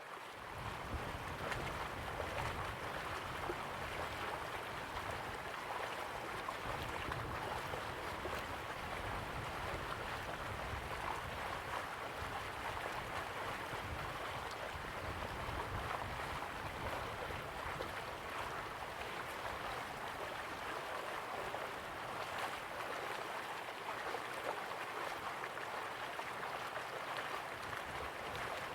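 River water flowing steadily, an even rushing hiss with a low rumble underneath that eases off in the last few seconds.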